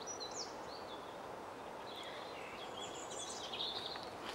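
Faint outdoor birdsong: small birds giving high, thin chirps and short trills over a steady, quiet background hiss, busiest near the end.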